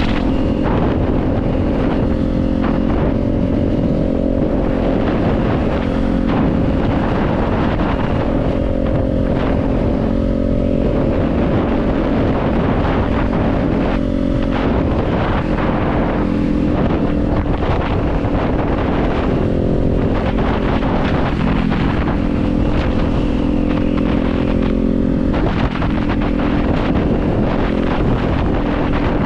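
Kawasaki Z400's parallel-twin engine running at a steady cruise, its pitch drifting only slightly, with wind rushing over the microphone.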